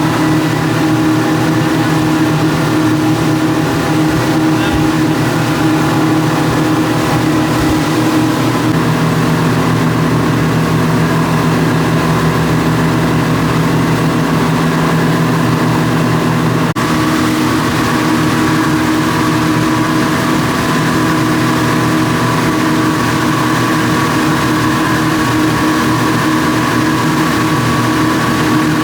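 Speedboat engine running steadily at cruising speed, with rushing water and wind noise; the engine note shifts abruptly about seventeen seconds in.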